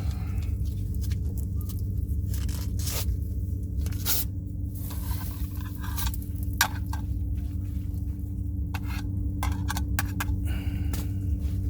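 Scattered scrapes and sharp clicks of handling noise over a steady low rumble.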